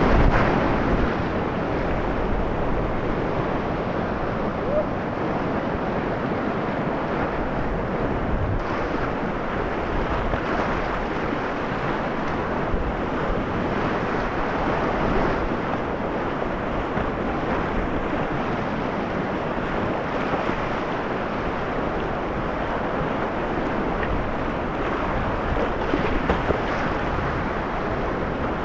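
River whitewater rushing steadily, the continuous noise of rapids heard from a kayak on the run.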